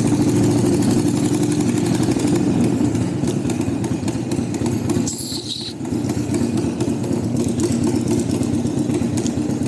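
Motorcycle engine running steadily, with a brief high-pitched squeak about five seconds in.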